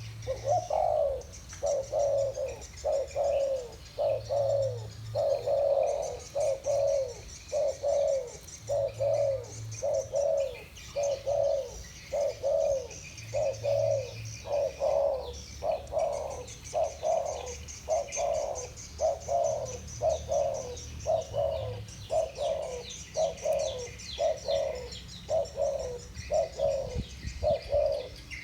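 Spotted doves with the voice type Vietnamese keepers call 'thổ bầu' cooing back and forth, a steady series of low coo notes about one a second. Small birds chirp faintly and high in the background.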